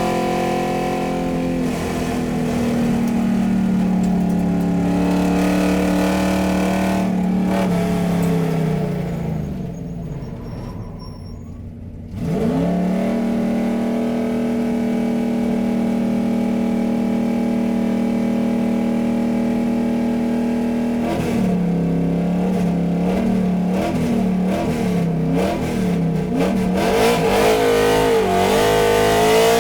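Car engine sound effect. The engine note sinks slowly in pitch and fades away about ten seconds in, then comes back abruptly as a steady hum. From about 21 s it is revved up and down, the pitch wavering repeatedly.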